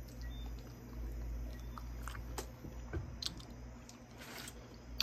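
Close-up mouth sounds of eating fried chicken wings in sticky chili sauce: soft wet chewing with scattered small lip smacks and clicks.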